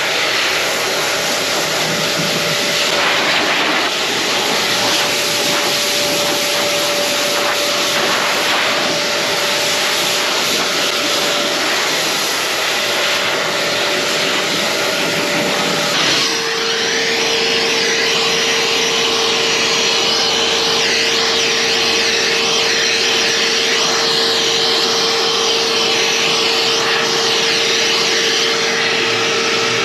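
Pet hair dryer running steadily: a loud rush of blown air with a steady whine. About halfway through, the whine drops to a lower pitch and the rush of air changes.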